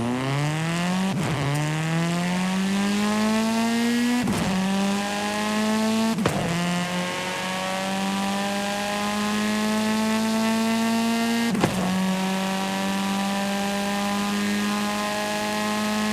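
Simulated car engine in a driving video game accelerating up through the gears. The engine note climbs and drops back with a click at each of four upshifts, about 1, 4, 6 and 12 seconds in. Each gear climbs more slowly, and the engine holds a nearly steady note near the end.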